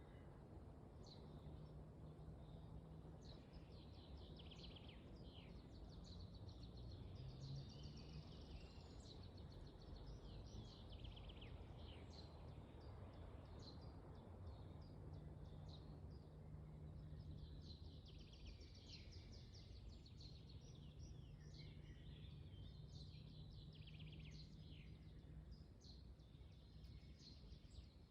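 Faint forest ambience: many small birds chirping in quick, high notes over a low, steady rumble of wind. A faint low hum comes and goes underneath.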